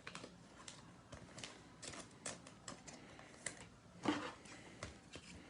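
Faint, irregular small clicks and taps of trading cards being handled, with a brief rustle about four seconds in.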